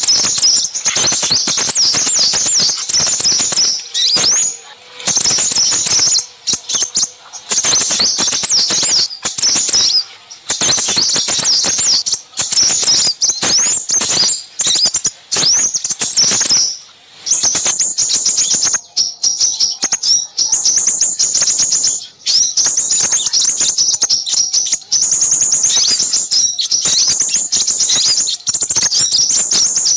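Many small birds calling at once: a dense, busy chorus of rapid high-pitched chirps and twitters with only brief pauses. It is a bird-lure recording of small birds' calls, played to draw in crimson sunbirds.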